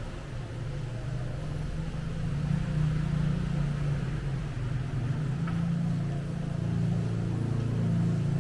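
A vehicle engine running steadily with a low hum, which cuts off suddenly near the end.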